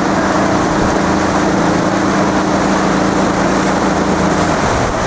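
Motorboat engine running steadily with an even hum over a rushing noise of wind and water; the engine hum drops away about four and a half seconds in.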